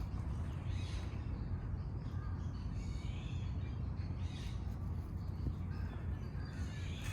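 Birds calling in short, scattered calls over a steady low background rumble.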